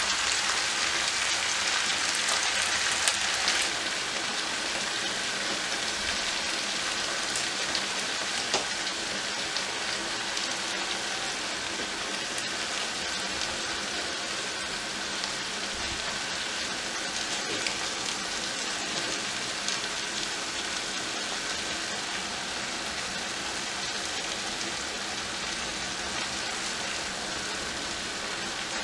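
Chicken pieces with onion and bell peppers sizzling steadily in a frying pan, a dense even hiss, a little louder in the first few seconds while chopped tomatoes are scraped in from a bowl with a silicone spatula. A few light clicks of the spatula and ingredients landing in the pan.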